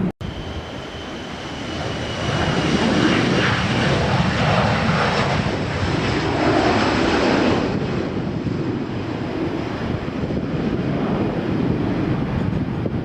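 Airliner jet engines running loud, with a high whine that fades over the first few seconds. The sound swells about two seconds in, holds for several seconds, then eases off.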